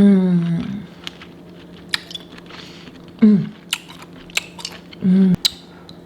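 Close-up eating sounds: sharp clicks and smacks of chewing and handling seafood boil, with three short hums of a voice, one at the start, one about three seconds in, and one about five seconds in.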